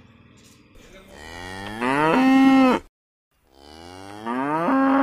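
A cow mooing twice: two long moos, each rising in pitch and then holding steady, the second running on to the end.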